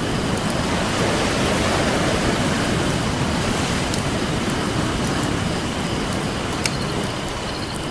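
Ocean surf washing onto the shore as a steady rush that swells and eases, with a campfire crackling over it and a few sharp pops of burning wood, one standing out about two-thirds of the way in.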